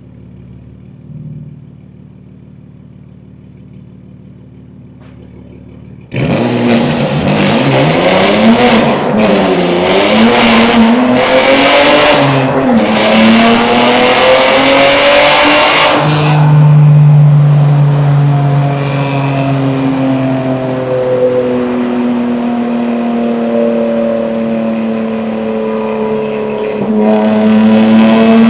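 BMW M2 G87's S58 twin-turbo straight-six, breathing through catless downpipes, running quietly at first, then about six seconds in going to full throttle with a loud exhaust. For about ten seconds the engine pitch wavers up and down as the rear tyres struggle for traction. It then pulls steadily with a slowly rising pitch, growing louder again near the end.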